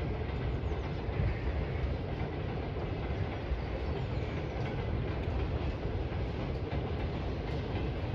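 Freight train passing at a distance: a steady low rumble of rolling wagons.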